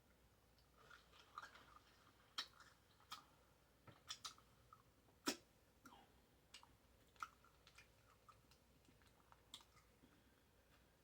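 Close-miked chewing of a bacon cheeseburger: soft wet mouth clicks and smacks at irregular intervals, with a few sharper clicks, the loudest about five seconds in.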